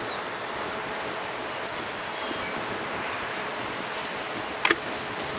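Steady surf and wind noise on an ocean beach, with a few faint high calls from seagulls. A single brief, loud, sharp sound comes near the end.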